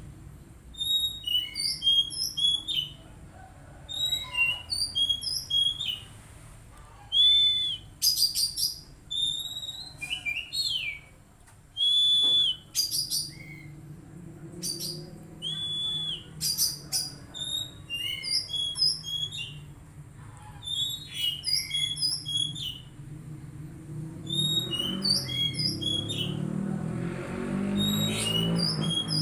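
Oriental magpie-robin song: short, varied whistled phrases and chirps repeated with brief pauses between them. A low rumble swells underneath near the end.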